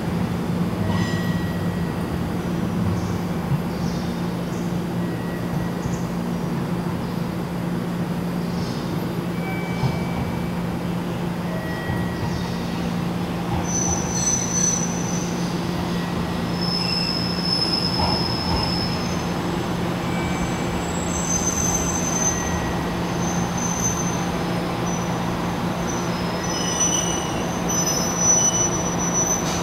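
Matsuura Railway MR-600 diesel railcar pulling slowly into the station over a low steady hum, with high-pitched wheel squeals starting about halfway through and recurring several times near the end as it comes up to the platform.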